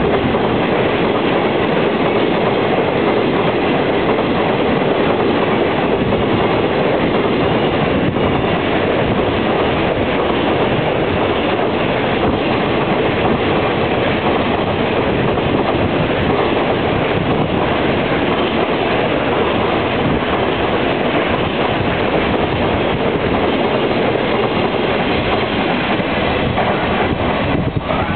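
Container freight train hauled by an EF66 electric locomotive passing close by: a loud, steady rumble and clatter of the wagons' wheels on the rails.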